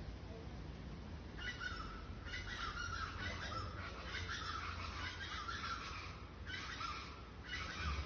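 Birds calling in rapid, dense runs of calls that start about a second and a half in and carry on with two short breaks near the end.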